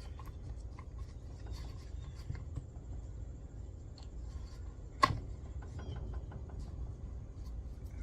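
Light clicks and scrapes of chainsaw parts being handled by hand, with one sharp knock about five seconds in.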